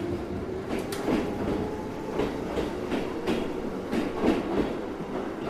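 Train running along the track: a steady rumble with sharp wheel clacks at uneven intervals, roughly one or two a second.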